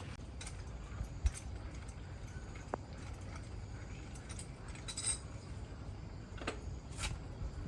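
Scattered metallic clinks and knocks of tools and parts being handled during heavy truck tire work, over a low steady rumble. The sharpest knock comes about a second in, with a small cluster of clinks about five seconds in.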